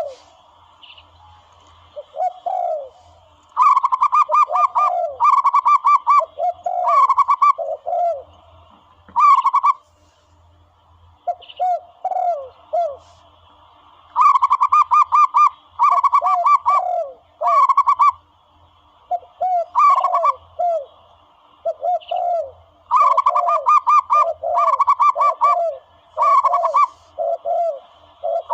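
Zebra doves calling: short bursts of rapid staccato cooing notes, answered by lower, slower coos, repeating in runs with brief pauses.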